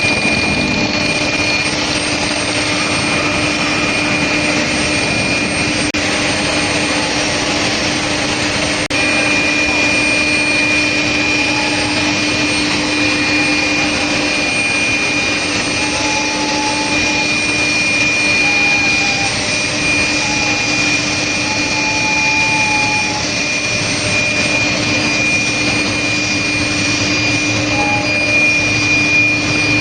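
Steady industrial noise from a steel plate induction hardening furnace line running, with a constant high whine and a low hum. The whine drops out about two seconds in and comes back about nine seconds in.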